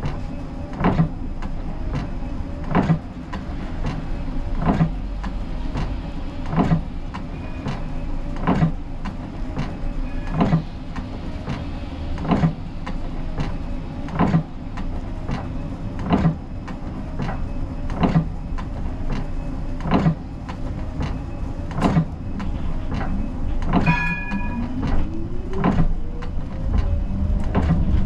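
Inside the cab of a Siemens Combino tram: a steady low hum with a sharp click about every two seconds. Near the end a short ringing tone sounds, then the traction motors' whine rises steadily as the tram pulls away.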